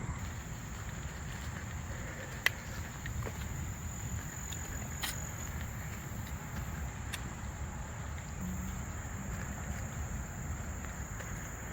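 Steady high-pitched insect chorus over a low rumble, with a few sharp clicks about two and a half, five and seven seconds in.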